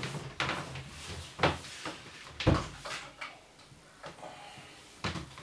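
A few separate handling knocks and clicks, the loudest a sharp knock with a low thud about two and a half seconds in.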